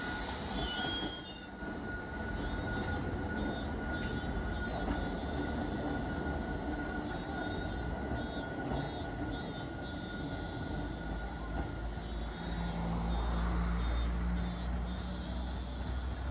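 Hakone Tozan Railway electric train running at a station, a steady rolling rumble with a brief high-pitched squeal about a second in. A low hum and heavier rumble build up about three quarters of the way through.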